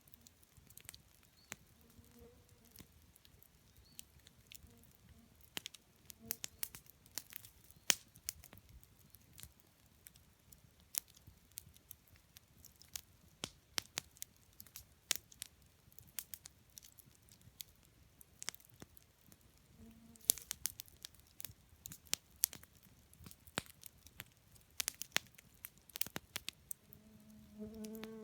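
Wood campfire crackling, with irregular sharp pops and snaps from the burning logs.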